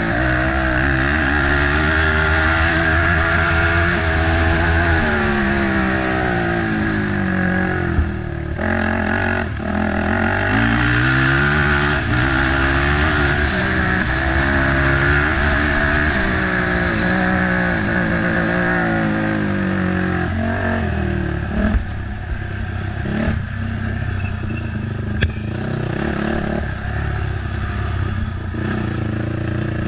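Race ATV engine revving hard, its pitch climbing and falling again and again through gear changes, dropping off briefly twice about eight and nine seconds in. In the second half it runs lower, with sharp knocks and clatter from the quad over rough ground.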